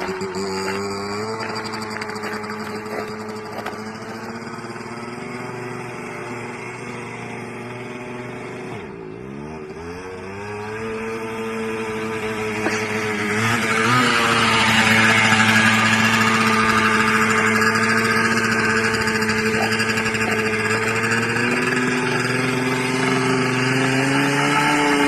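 1977 Suzuki TS100's two-stroke single-cylinder engine running under way. The engine note drops low about nine seconds in, then climbs back up and runs louder and harder from about fourteen seconds. It eases briefly a little after twenty seconds and picks up again near the end.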